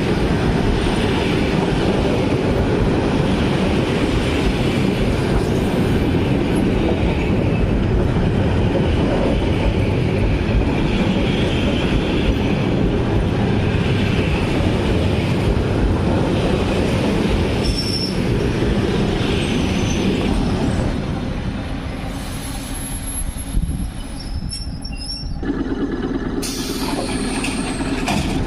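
ЭТ2М electric multiple unit running past on the rails: loud, steady wheel and rail noise with repeated higher scraping patches every couple of seconds. The noise eases off about 21 seconds in, and a steady low hum takes over for the last few seconds.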